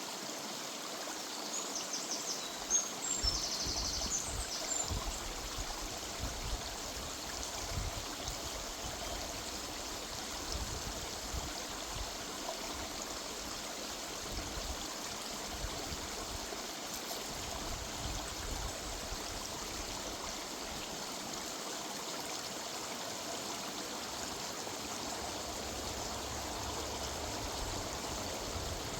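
River water running over stones in a steady rush. A small bird chirps and trills briefly, high-pitched, a couple of seconds in.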